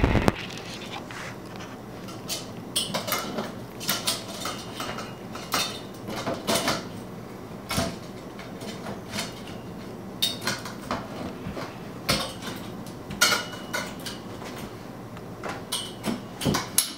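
Irregular clicks, knocks and light rattles of tent frame poles and crown pieces being handled and fitted together.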